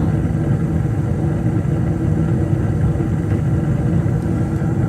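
Keeprite gas furnace running, a steady loud low rumble with a hum, during a test run to check whether its burner flame keeps shutting off on a limit circuit fault.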